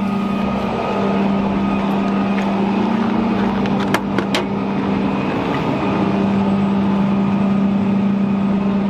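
Tow truck engine running steadily with a constant low hum, with a couple of sharp clicks about four seconds in.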